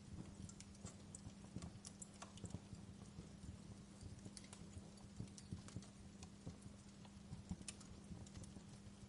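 Wood fire crackling: irregular small pops and snaps at an uneven pace, over a faint steady low hum.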